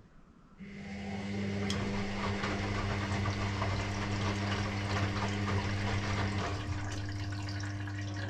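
Electrolux EW6S404WU washing machine with its pump running, moving water through the machine: a steady electric hum under rushing, gurgling water. It starts just after the beginning and cuts off at the end.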